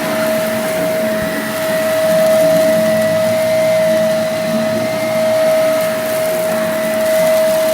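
Vacuum cleaner running with a steady high whine over a rushing hiss, its level swelling and easing slightly.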